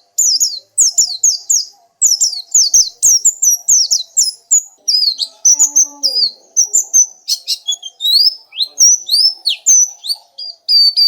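Pleci (white-eye) singing a fast, unbroken chattering song of high notes that mostly fall quickly in pitch. Near the end it turns into a rapid run of short notes on one pitch.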